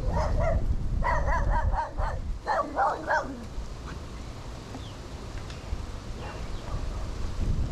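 A dog barking in quick runs of short, sharp barks during the first three seconds, over low wind rumble on the microphone.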